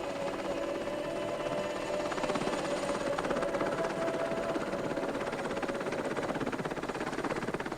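An engine running steadily with a fast, even throbbing pulse.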